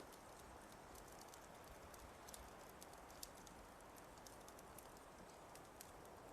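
Fireplace fire crackling faintly: irregular small snaps and pops over a soft steady hiss.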